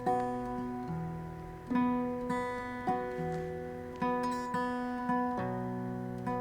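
Acoustic guitar playing the opening chords of a song, each chord struck and left to ring out before the next, about one a second.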